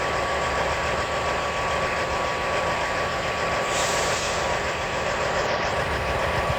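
Heavy truck's diesel engine idling steadily, with a hiss of air for a second or two about halfway through.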